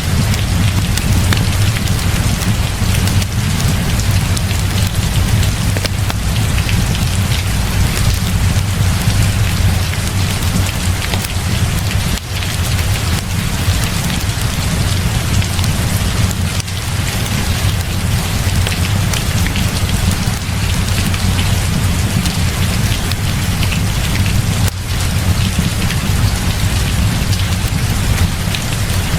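Heavy rain falling steadily, a dense even hiss, with a constant low rumble underneath.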